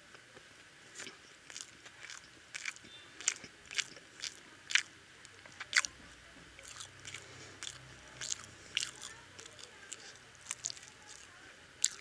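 Close-up chewing of curry-soaked egg toast, with irregular sharp mouth clicks about once or twice a second.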